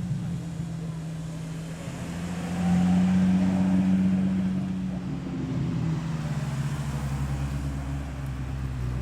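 Car engine running as a car drives slowly past, loudest about three seconds in, then dropping lower in pitch in the second half.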